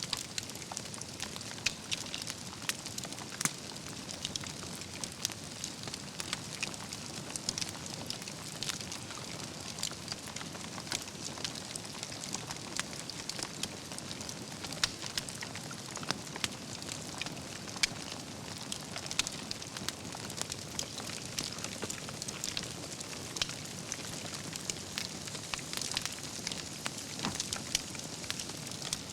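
Wood campfire burning, with a steady hiss and frequent irregular crackles and pops from the burning logs, a few of them sharper and louder.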